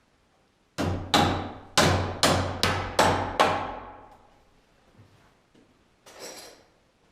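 Hammer blows, seven strikes in under three seconds, each one ringing out before the next. A brief, softer rustle follows near the end.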